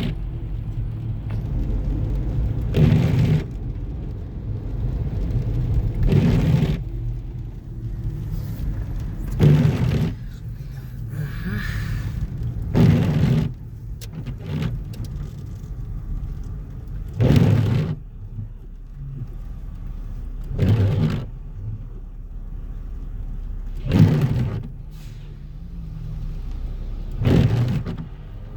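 Car driving along a road: a steady low rumble of road and engine noise, broken every three to four seconds by a brief, louder swell.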